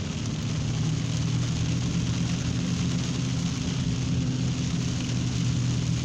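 Steady low hum under an even hiss of rain.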